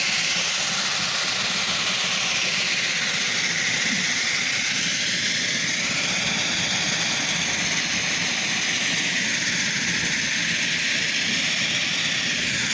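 A steady, even hiss-like rushing noise, strongest in the upper range, with no breaks or distinct events.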